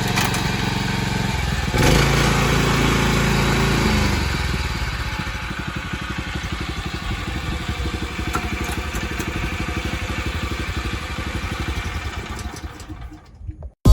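Mitsubishi GM181L single-cylinder OHV petrol engine on a MyBoy tiller running, speeding up about 2 s in and dropping back to a steady idle about 4 s in. The sound fades out near the end.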